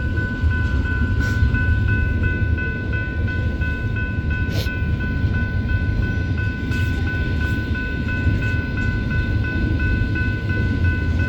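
Freight train of intermodal container cars rolling past: a steady low rumble, with a few sharp clicks from the wheels over rail joints and a steady high ringing tone held throughout.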